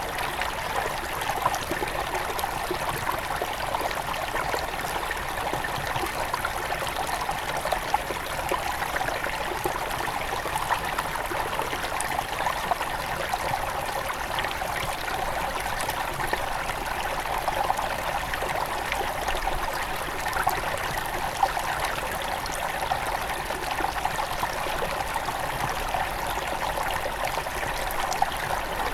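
Small river's headwaters flowing and trickling over stones, a steady, even babble of water.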